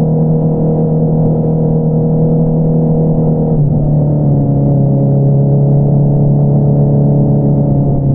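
Motorcycle inline-four engine, a 2022 Honda CBR650R with an Akrapovič single-outlet exhaust, running steadily under way. A bit under halfway through its pitch drops suddenly to a lower, steady note, as on a gear change.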